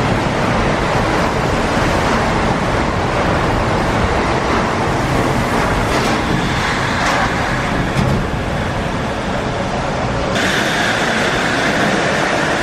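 Shonan Monorail car running, a steady rumbling noise from the suspended monorail's rubber-tyred running gear, with an abrupt change in tone about ten seconds in.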